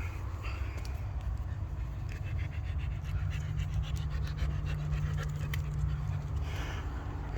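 Dog panting close to the microphone in quick irregular breaths, over a steady low rumble.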